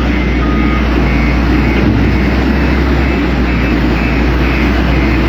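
Heavy work vehicle engine running, with reversing alarms beeping: a lower beep that stops within the first second and a higher beep repeating steadily through the rest.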